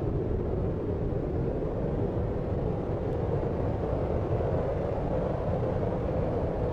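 Steady deep rushing noise for sleep, a dark brown-noise-like hiss weighted to the low end and unchanging throughout.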